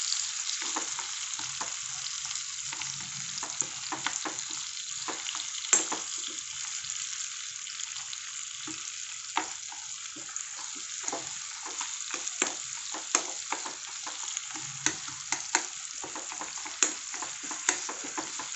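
Chopped onions and tomatoes sizzling in hot oil in a non-stick kadai while a steel ladle stirs and scrapes through them, with frequent sharp clicks and taps of metal on the pan. The tomatoes are being fried down until soft.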